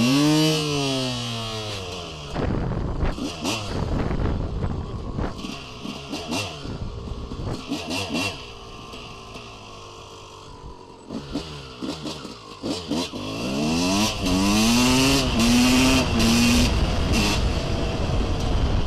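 Motorcycle engine revving and accelerating, its pitch climbing and dropping with gear changes. There are two strong pulls: one right at the start and one about fourteen seconds in, which steps up through several shifts.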